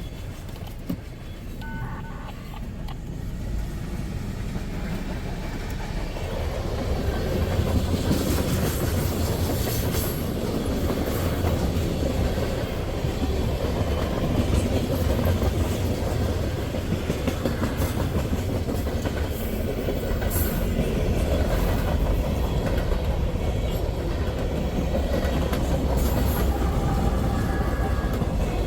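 Freight train rolling past: a steady low rumble of wheels and cars that grows louder about six seconds in, with scattered wheel clicks over the rails.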